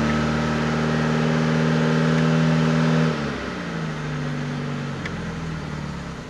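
Fiat Panda 4x4's four-cylinder Fire engine running on its manual choke just after a cold start, heard from inside the cabin. The revs hold at a raised fast idle, then drop to a lower, steadier idle about halfway through.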